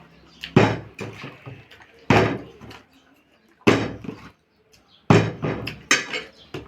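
A plastic water bottle being flipped and landing again and again on a hard surface: sharp thuds, about one every second and a half.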